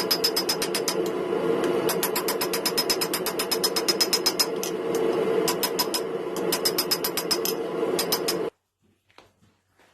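Steady mechanical hum with rapid metallic clicking, about ten clicks a second in runs of a few seconds. It cuts off suddenly near the end.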